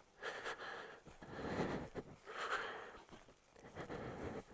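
A person breathing hard through the mouth, about five heavy breaths roughly a second apart, while walking uphill.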